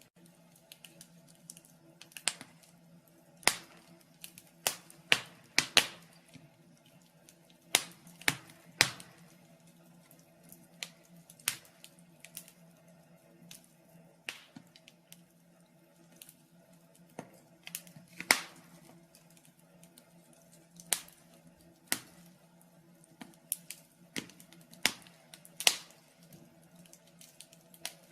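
Wood fire in a fireplace crackling: irregular sharp pops and snaps about once a second, over a faint steady hum.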